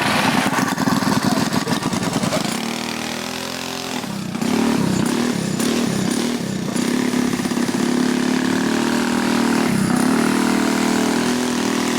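Small minibike engines running together, revving and settling back to a fast idle, their pitch rising and falling. They drop off briefly about three seconds in, then pick up again and run more steadily.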